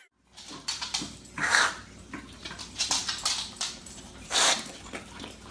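A dog's short, noisy sounds come in several bursts, the loudest about one and a half seconds and four and a half seconds in, over a faint steady low hum.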